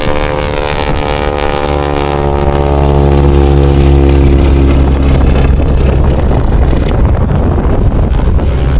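Piston-engined wingwalking biplane flying past, its engine and propeller drone falling steadily in pitch over the first few seconds as it goes by, then a loud rough rush of noise.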